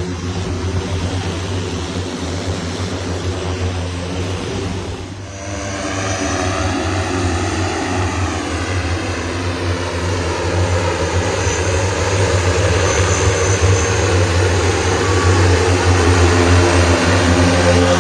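The Hexa one-seat multirotor aircraft, driven by 18 carbon-fibre propellers, droning in flight. The sound dips about five seconds in, then its pitch shifts and it grows louder.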